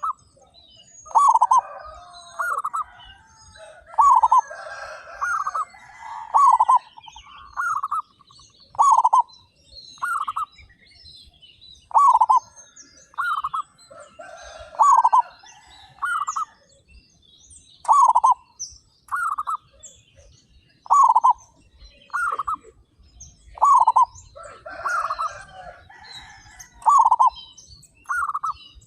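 Zebra doves (perkutut) cooing in chorus: loud coo notes repeat about once a second, with fainter overlapping coos from other doves and high chirps from small birds.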